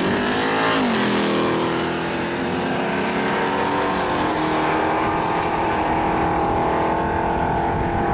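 Mazda RX-7's swapped Chevrolet LT1 V8, fitted with an aftermarket cam, at full throttle on a drag-strip launch. The engine note climbs through the gears, dropping at shifts about a second in and about four seconds in, then pulls steadily as the car moves away.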